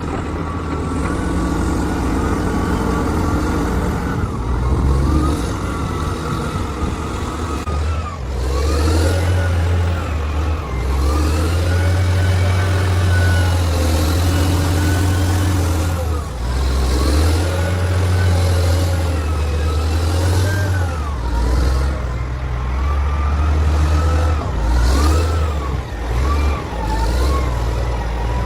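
Heavy construction machine's engine working under load, revving up and falling back in cycles every few seconds, with a whine that rises and falls in pitch alongside it.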